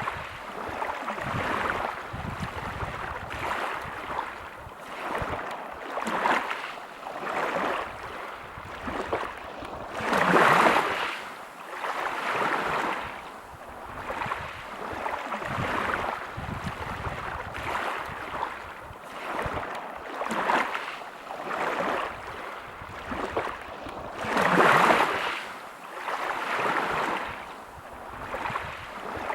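Sea waves breaking on a pebble beach, the surf swelling and ebbing every couple of seconds. Two bigger breakers come about ten seconds in and again about twenty-five seconds in.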